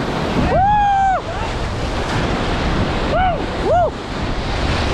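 Rushing whitewater of river rapids with wind on the microphone, and rafters whooping over it: one long whoop about half a second in and two short yelps near four seconds.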